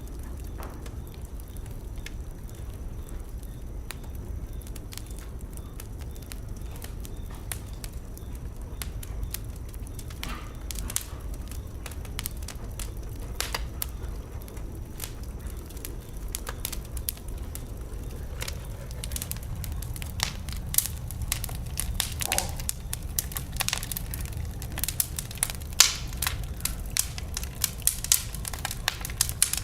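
Wood fire burning in a fireplace, a steady low rumble with sharp pops and crackles that come thicker and louder in the second half.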